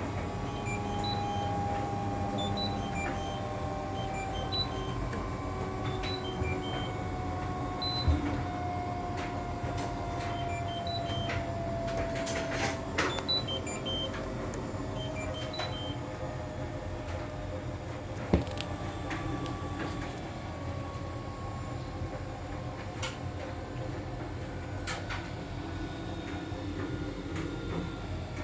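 Hoover H-Wash 500 washing machine running in service (test) mode: a steady hum with a motor whine that slowly falls in pitch, twice, and a few sharp clicks, the loudest about two-thirds of the way through.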